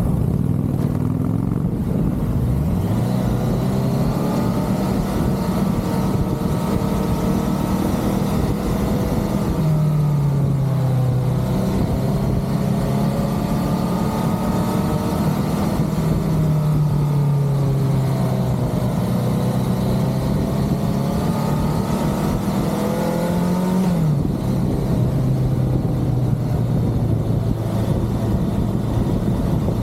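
BMW K100 motorcycle's inline-four engine running under way over a low rumble of wind and road. The engine pitch climbs about two seconds in, sags and rises again twice, then drops sharply near the end, as the rider works the throttle and gears.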